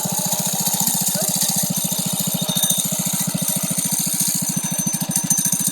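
A homemade minibike's small 5.5-horsepower single-cylinder engine idling steadily, with a fast, even putter.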